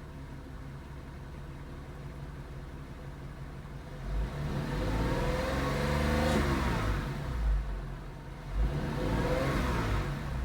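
2002 Porsche 911 Carrera 4S's 3.6-litre flat-six, still cold from its start, idling steadily, then revved up and let fall back twice, with a short blip in between.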